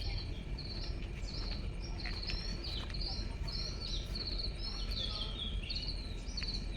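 Birds chirping: short high notes repeated several times a second, over a steady low background noise.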